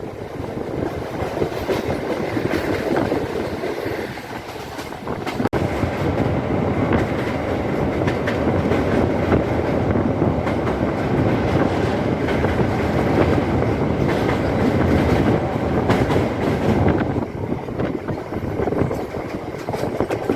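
Moving local passenger train running on its rails: a steady loud rumble with wheel clatter over the rail joints, growing a little louder about five seconds in.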